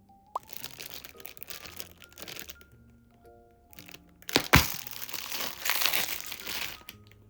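Crinkling and rustling of something being handled, in two stretches, with a sharp knock shortly before the second, over soft background music.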